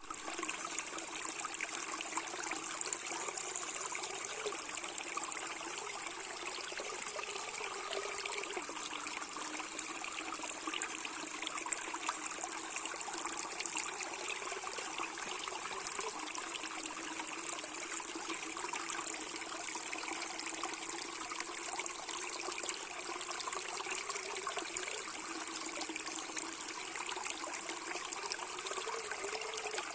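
Water trickling and flowing steadily, like a small stream, with a steady high hiss running above it.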